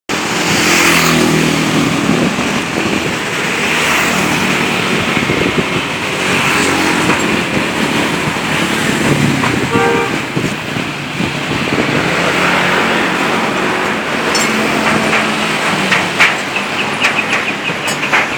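Automatic scooter's engine running through a custom aftermarket exhaust, revving up and dropping back several times.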